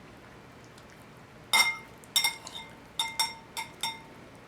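Cutlery clinking against a plate about six times, each a sharp ringing clink, as food on the plate is cut into.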